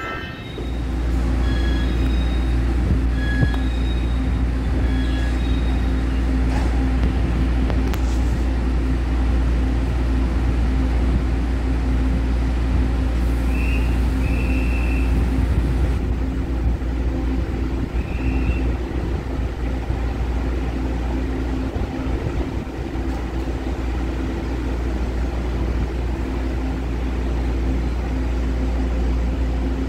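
A train at a station platform: a steady low rumble with a constant hum, and a few short, faint high squeaks.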